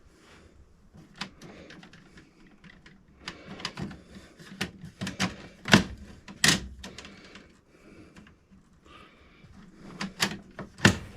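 Irregular clicks and taps of hands and tools working on wiring inside a breaker panel, mostly light, with a few louder knocks about six seconds in and again near the end.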